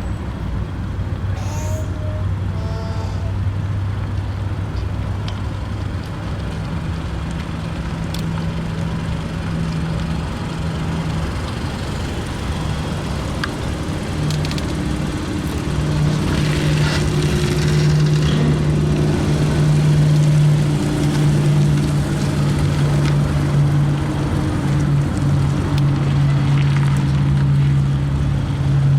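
A car engine running steadily with a low hum. Its pitch steps up several seconds in, and again a little before halfway.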